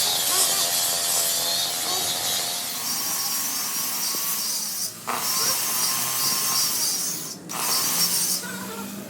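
A power tool working metal: a steady hissing, whirring noise with a few held tones. It drops out briefly twice, about five and seven and a half seconds in.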